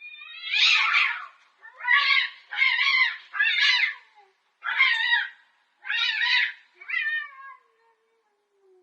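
A cat meowing loudly, seven meows one after another, the first the longest and the last falling in pitch.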